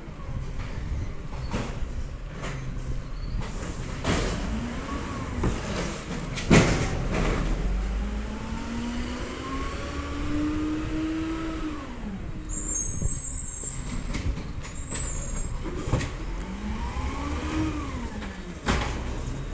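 Diesel Peterbilt 320 side-loader garbage truck revving up and down three times as its hydraulics work, with metal clanks and one loud bang about six and a half seconds in.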